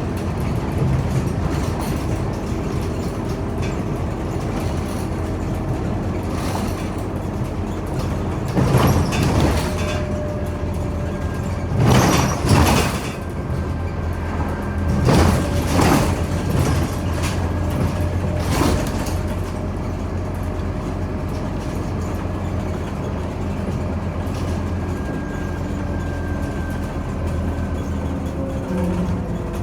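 Scania Omnicity city bus running, heard from inside as a steady low engine and road drone. Several short, louder noisy surges come around the middle.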